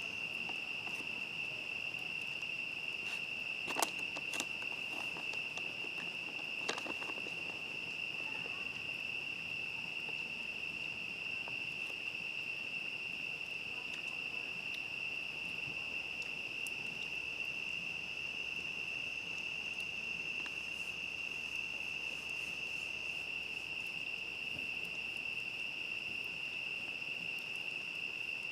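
Chorus of night crickets, a steady unbroken high-pitched trill, with a few sharp pops from a crackling campfire about four and seven seconds in.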